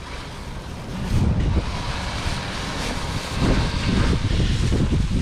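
Wind buffeting the microphone: an uneven low rumble that swells in gusts, a little stronger from about a second in.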